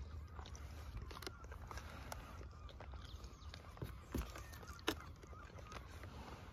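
Birds calling, over scattered light clicks, with a dull thump and then a sharp click a little past halfway.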